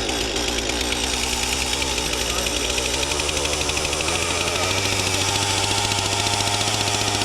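A small engine running steadily with a fast, even pulse, its pitch stepping up slightly about two-thirds of the way through.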